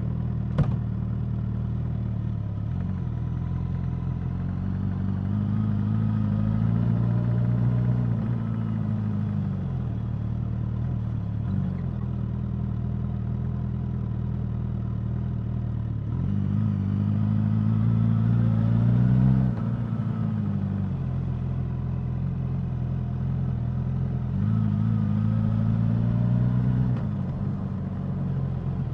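Suzuki GSX-S1000's inline-four engine running at a steady idle, with revs rising slowly three times and dropping back each time. A sharp click sounds just after the start.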